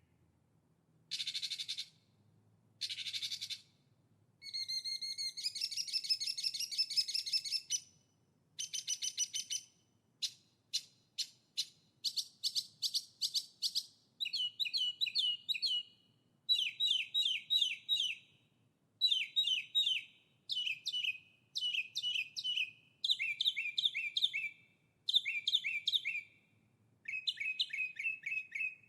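Songbird singing: a long run of short phrases, each a quick series of high chirping notes, separated by brief pauses.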